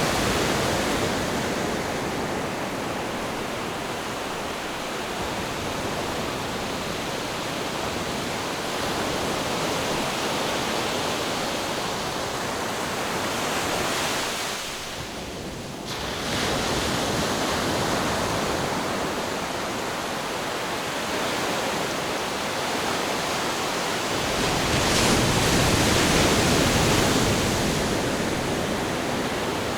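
Ocean surf washing in: a continuous rushing hiss of water that swells as waves break, with a brief lull near the middle and the loudest surge near the end.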